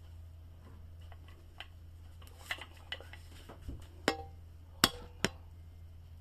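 Metal parts of a kitchen range-hood ventilation fan being handled: a run of light clicks and taps, then three sharp knocks in the second half, the loudest with a short metallic ring.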